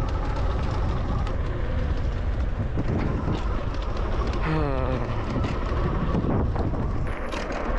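Wind buffeting the action camera's microphone on a moving bicycle, a steady low rumble, with a brief wavering pitched sound about halfway through.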